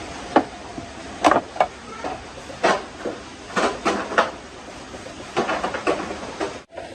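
Irregular metallic clanks and knocks of tools and motorcycle parts being handled, over a steady background hiss. The sound cuts out briefly near the end.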